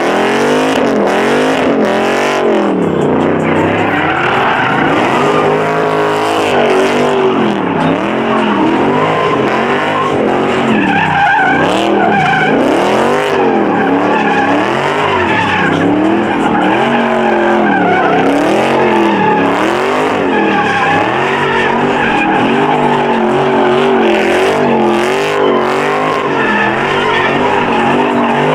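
Muscle car doing a burnout or donuts: the engine revs up and down over and over, about once a second, while the rear tyres squeal and skid.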